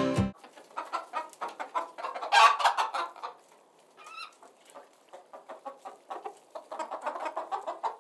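Chickens clucking: a dense, uneven run of short clucks, loudest about two to three seconds in.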